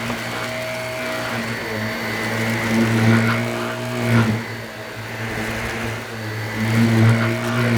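Shark Navigator upright vacuum cleaner running over carpet, a steady motor hum that swells louder with the strokes, about three, four and seven seconds in.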